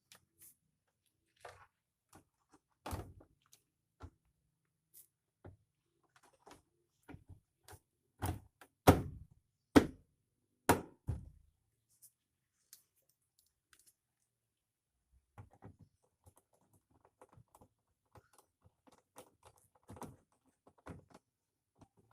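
Irregular knocks, thunks and clicks of parts and tools being handled while a motor is fitted into a washing machine. The loudest handful of knocks comes about 8 to 11 seconds in, with lighter clicks and taps before and after.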